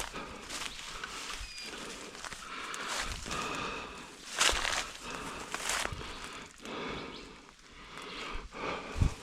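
Footsteps through forest undergrowth, with leaves and branches swishing and crunching against the body in an uneven rhythm.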